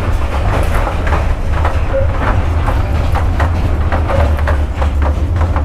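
Sleeper train running along the line: a steady heavy rumble with the wheels clattering over the rails a few times a second.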